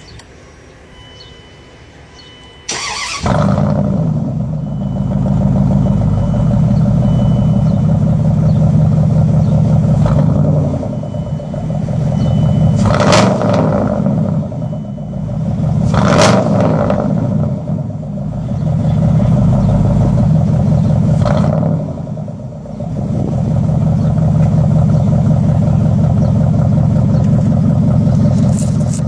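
1999 Dodge Ram 1500's 360 (5.9-litre) V8 starting about three seconds in, then running loud and raw through shorty headers and a straight-through exhaust with no cats or mufflers. The throttle is blipped three times, at roughly 13, 16 and 21 seconds.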